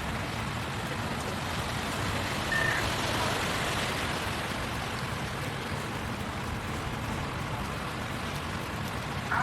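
Steady rushing noise of rain, water and traffic on a flooded city street. A short, faint beep sounds about two and a half seconds in.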